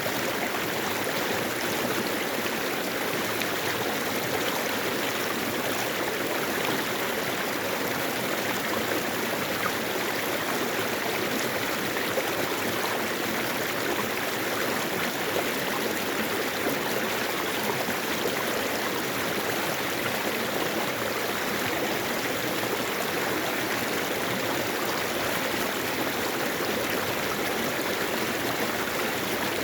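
Mountain stream flowing over rocks, a steady rushing and burbling of water.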